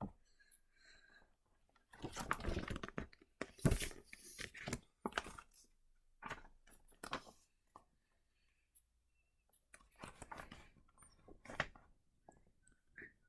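Paper rustling as notebook pages are handled and turned, in several rustling bursts with quiet gaps between them.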